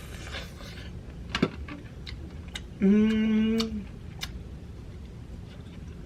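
A woman's short, steady hummed "mmm" of just under a second, about halfway through, amid a few sharp mouth clicks and smacks while eating.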